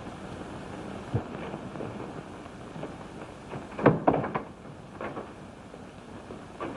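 Steady hiss of an old film soundtrack, with a sharp knock about a second in and a loud bang with a few quick knocks about four seconds in, followed by a couple of fainter knocks.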